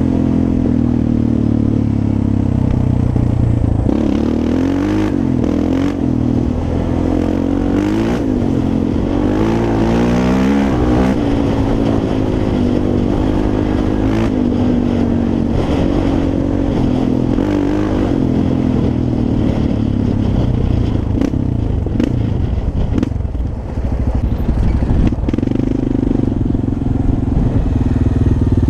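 Yamaha Raptor 350 quad's single-cylinder four-stroke engine running under a rider, the revs rising and falling again and again, with scattered knocks and clatter, most of them in the second half.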